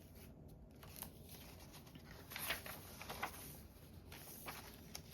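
Paper and cardstock being handled: soft rustling and sliding of journal pages and a paper pocket, with a few brief scrapes about halfway through.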